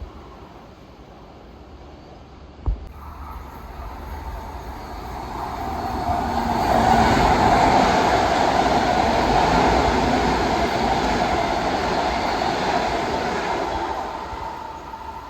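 Long Island Rail Road train going by on the tracks: the rumble and wheel-on-rail noise build for a few seconds, stay loud through the middle, then fade away. A single sharp knock sounds a few seconds before the train gets loud.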